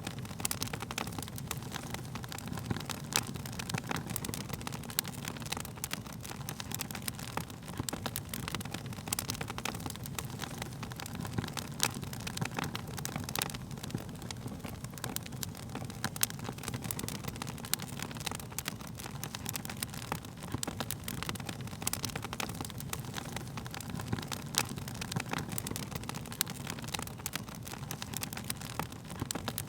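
Wood fire crackling: frequent irregular sharp pops and snaps of burning wood over a steady low rush of the flames.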